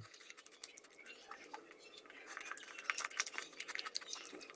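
A chocolate-coated Prince sandwich biscuit being crunched and chewed close to the microphone: a run of faint, crisp crackles and clicks.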